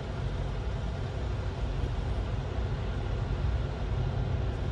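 Semi truck's diesel engine idling steadily with a low rumble while the truck sits on a weigh scale.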